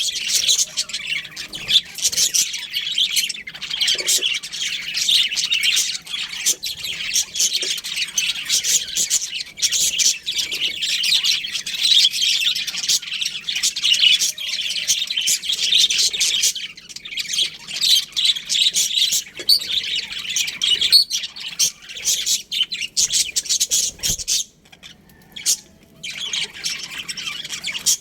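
A colony of budgerigars chirping and chattering continuously, many calls overlapping, with a brief lull near the end.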